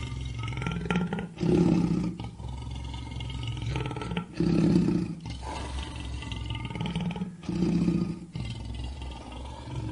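Lion roaring: a series of deep roars, with the loudest bursts coming about every three seconds and lower rumbling between them.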